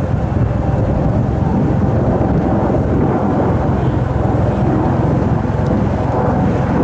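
Jet airliner engines running at the airfield: a loud, steady rumble.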